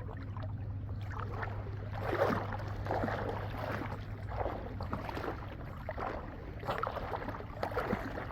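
Water sloshing and splashing in irregular swirls as a Shih Tzu in a floater paddles, over a steady low hum.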